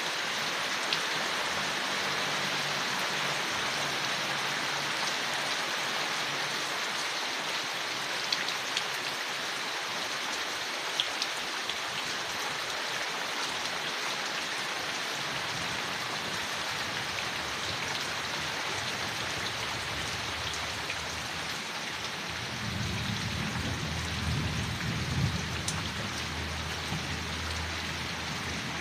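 Steady rain falling on leaves, an even hiss with a few sharp drips standing out. About three-quarters of the way through, a low rumble swells for several seconds and fades.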